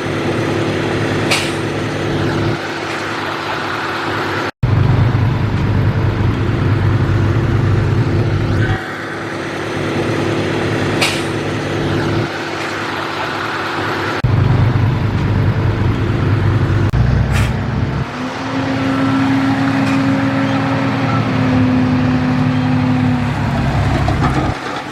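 Heavy diesel machinery engine running steadily, in several spliced segments that cut abruptly from one to the next, with a brief dropout a few seconds in and a higher steady tone joining in for a few seconds near the end.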